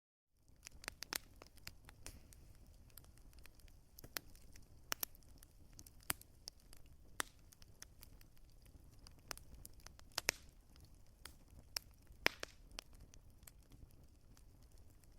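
Wood fire crackling, with irregular sharp pops and snaps over a faint low rumble; the sound drops out for a moment right at the start.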